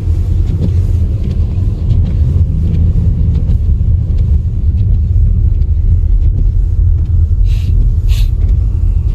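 Steady low rumble of a motor vehicle driving, with two short hissing sounds near the end.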